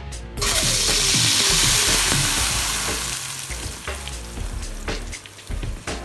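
Blended chilli spice paste poured into hot oil in a metal wok: a loud sizzle that bursts up as the paste hits the oil and dies down over a couple of seconds into scattered crackling and spitting as it starts to fry.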